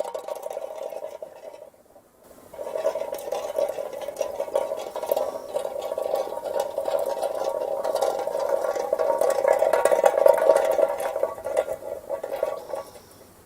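Metal soda can rolling on asphalt road, a steady rattle with a ringing metallic tone. One roll dies away about two seconds in; then another starts, grows louder and fades out near the end.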